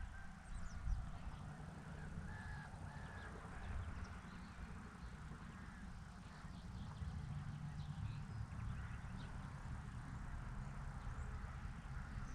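Wild birds calling: many short chirps and brief calls scattered throughout, over a steady low rumble.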